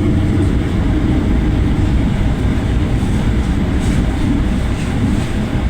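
Train running through a station with a steady, heavy rumble.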